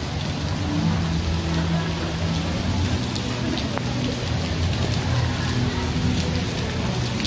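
Heavy downpour: torrential rain hissing steadily onto wet cobblestone paving and splashing on the ground.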